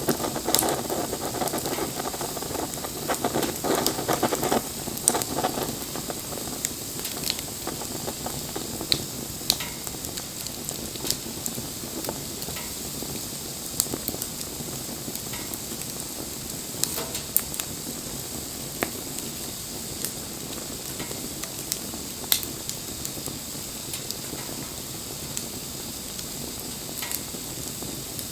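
Wood bonfire burning: a steady hiss with sharp crackles and pops scattered throughout. The fire sounds fuller and busier for the first five seconds, then settles to a thinner hiss with occasional loud pops.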